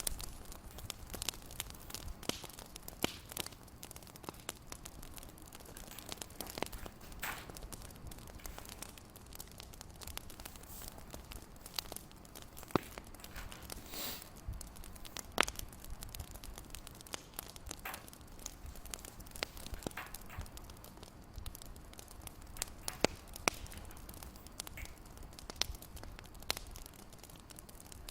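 Wood fire crackling steadily, with irregular sharp pops and snaps over a low, even rumble.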